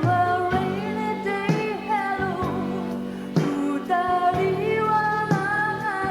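A woman singing a slow ballad with band accompaniment, her held notes wavering with vibrato over sustained chords.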